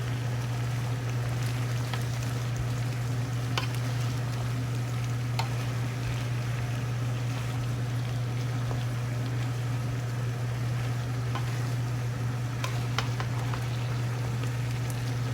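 Food sizzling and simmering in a pan on the stove, a steady frying hiss, over a constant low hum. A few light clicks, most likely utensils, come through now and then.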